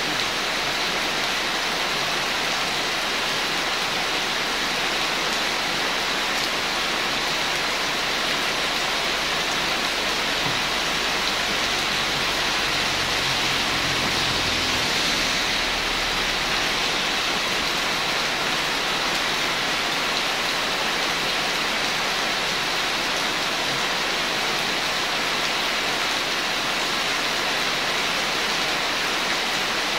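Steady rain pouring down, heard from under a corrugated metal roof as a dense, even hiss. A low rumble swells and fades about twelve to sixteen seconds in.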